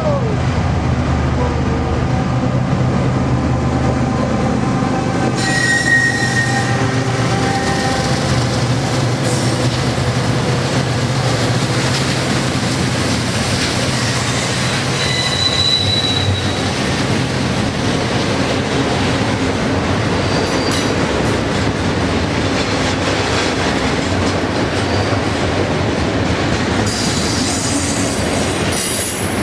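Union Pacific double-stack freight train rolling by: a steady rumble and clatter of the cars on the rails, with a low diesel drone in the first several seconds. Wheel squeals ring out at intervals, a high one about six seconds in and a higher one about fifteen seconds in.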